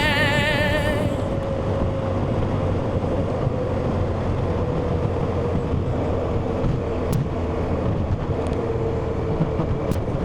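BMW R1250GS boxer-twin motorcycle at road speed, heard through a helmet-mounted microphone as a steady rush of wind and road noise over the engine's drone. The last sung note of a song fades out about a second in.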